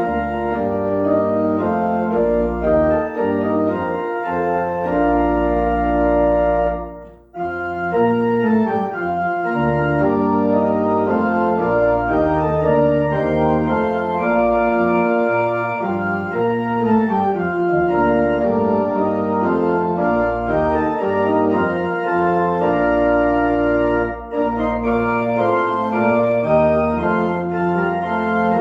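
Organ playing slow held chords over deep sustained bass notes, with a brief pause between phrases about seven seconds in.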